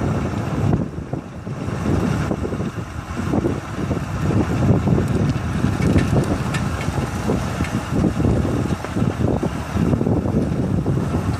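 Wind buffeting a handheld camera's microphone on a moving bicycle, an uneven gusting rumble with road noise beneath it.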